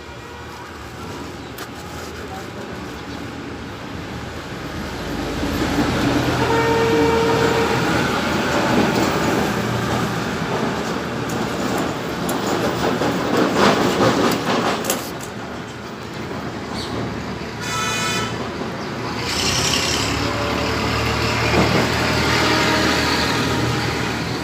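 Road traffic passing, with vehicle horns sounding briefly, once about 7 seconds in and once about 18 seconds in.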